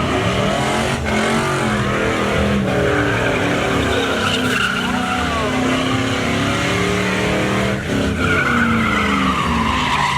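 Pickup truck doing a burnout. The engine is held at high revs, rising and falling, while the spinning rear tyres squeal.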